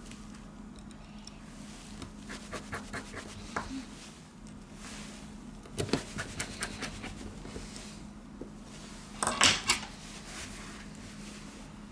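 Small clicks and taps of tools and plastic phone parts being handled as a V Smart Joy 1 smartphone is put back together, with a sharper cluster of clicks about six seconds in and a louder brief rustle about nine seconds in, over a faint steady hum.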